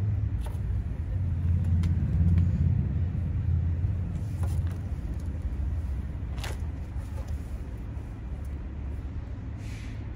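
A 2010 Jeep Wrangler's V6 engine running, a low steady rumble that swells about two seconds in and then settles. A few faint clicks sound over it.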